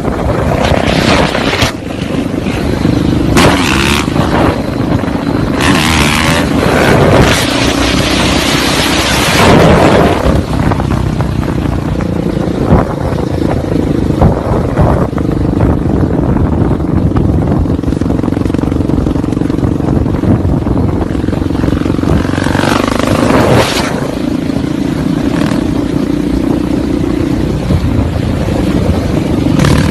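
Motorcycle engine running at a fairly steady pitch, with several stretches of loud rushing noise over it.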